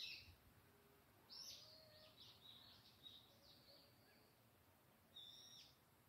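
Faint birdsong from a wild songbird: a short high call at the start, a quick run of chirped notes lasting about three seconds, then another short call near the end.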